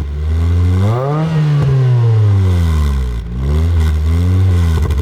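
1991 Acura Integra LS's 1.8-litre four-cylinder, fitted with an HKS Hi-Power exhaust, revved up twice and let fall back. The pitch climbs to a peak about a second in, sinks slowly, then climbs and falls again near the end.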